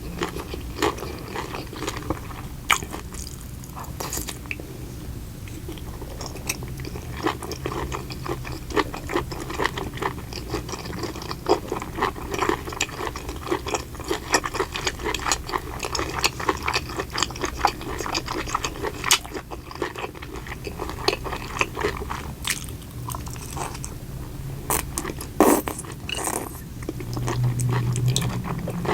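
Close-miked eating: crunchy bites and chewing, a dense run of small wet clicks and crackles, over a low steady hum.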